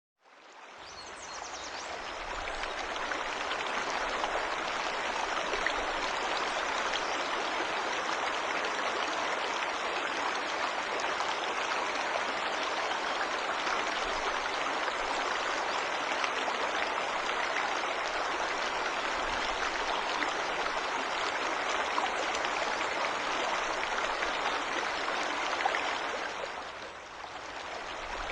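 Waterfall: a steady rush of falling water that fades in over the first few seconds and dips briefly in level near the end.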